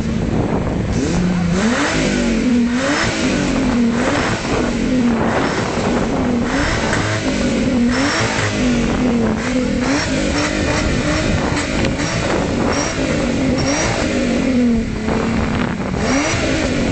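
Car engine revved at standstill in repeated short throttle blips, about one a second, its note rising and falling each time, heard close to the exhaust.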